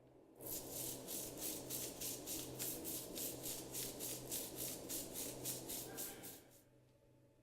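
Filter cleaning brush scrubbing the soaked mesh filter cage of a Dyson Supersonic hair dryer: quick, even back-and-forth strokes, about four a second, starting about half a second in and stopping about six and a half seconds in.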